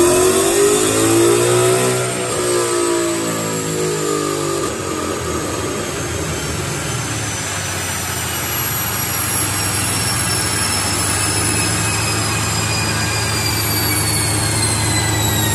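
Procharger-supercharged Ford Mustang on a chassis dyno revving up, its engine note climbing for about two seconds and then falling away as the throttle is released. The engine then runs at a steady low note while a high whine slowly falls as the wheels and dyno rollers spin down.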